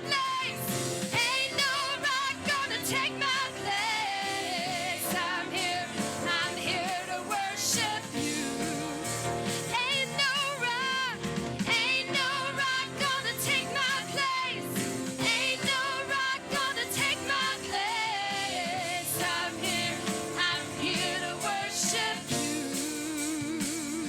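Worship song performed live: singing with vibrato over a band with drums.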